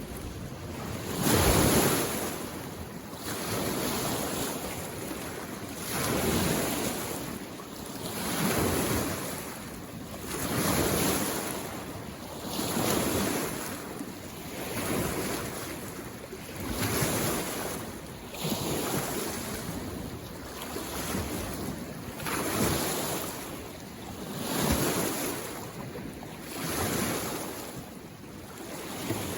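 Small mountain-lake waves washing in on the shore, one swell about every two seconds in a steady rhythm.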